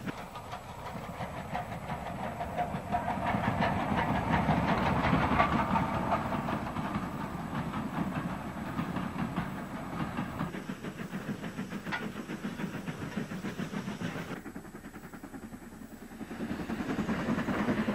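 Steam train running, with a quick, even rhythmic beat under a steady hiss. It drops away briefly near the end, then comes back louder.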